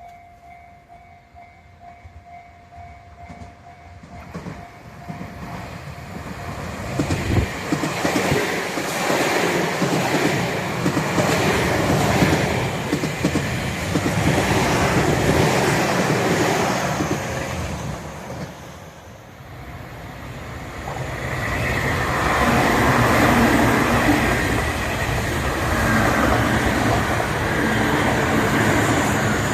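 Tobu Tojo Line electric train passing, with wheels clattering over rail joints. It builds up from a few seconds in, dips briefly after the middle, then grows loud again.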